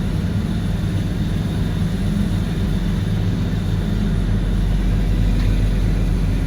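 Heavy machine engine running steadily at a constant speed, a low drone that grows slightly louder in the second half.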